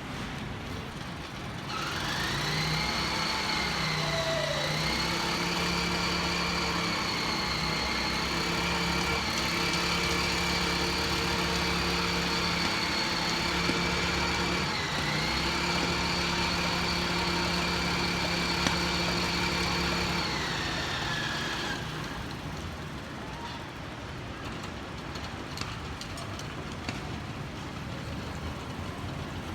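A vehicle or heavy-machine engine running, with a steady high whine over its low hum. The whine comes in with a short rise about two seconds in, dips briefly once near the middle, and falls away about twenty-one seconds in.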